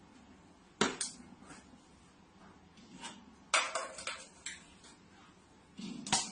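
A few sharp clinks and knocks of hard objects: one about a second in, a quick cluster in the middle, and another near the end.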